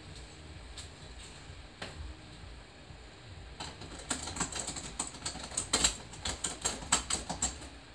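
A quick, irregular run of small clicks and rustles starting about three and a half seconds in and stopping shortly before the end, like close handling of objects or fabric. A few isolated clicks come before it.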